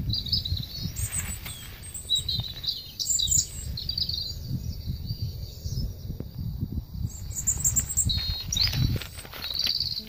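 Small birds chirping in quick, short high calls, over a steady low rumble on the microphone. Faint rustling as litter is picked up from the leafy ground near the start and again near the end.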